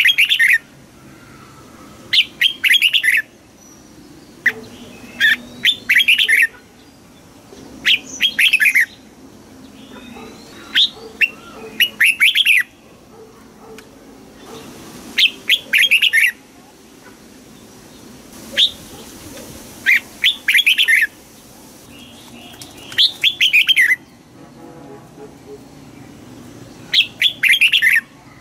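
Red-whiskered bulbul singing: short, loud phrases of quick chirping notes, one every two to three seconds with quiet gaps between.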